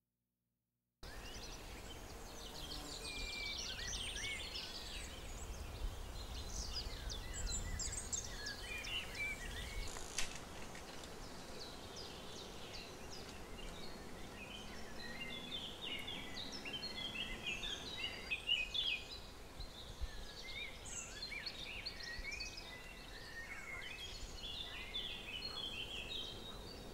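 Several songbirds chirping and calling over a faint outdoor ambience, many short, high calls overlapping. It begins after about a second of silence.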